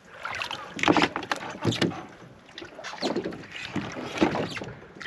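Irregular knocks and water noise aboard a small fishing boat at anchor, with wind on the microphone.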